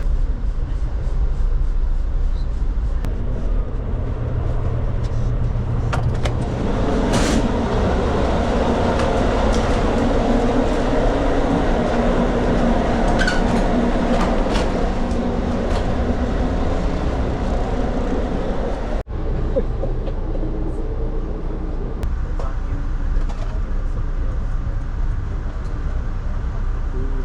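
Steady rumble of a moving passenger train, with scattered light clicks and knocks. The sound breaks off for an instant about 19 seconds in, then the rumble carries on.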